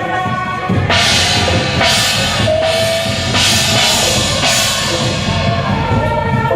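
Procession music with drums pounding and cymbals crashing about once a second, over held steady tones from another instrument.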